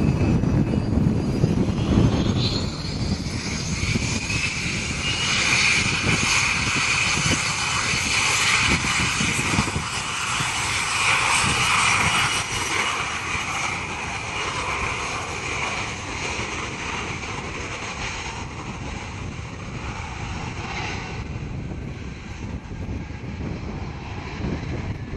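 Airliner's engines running as the aircraft passes: a steady high whine over a broad rush comes in a few seconds in and fades away after about twenty seconds. Wind rumbles on the microphone at the start.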